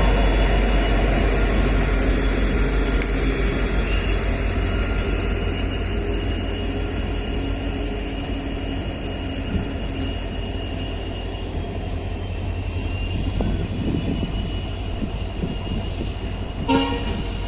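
A train running on the track with a steady rumble that slowly eases off, with a thin high steady whine above it. A short horn blast sounds near the end.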